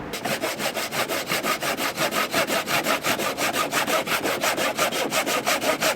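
Handsaw cutting through wood with quick, even back-and-forth strokes, about six a second: a timber being trimmed to fit.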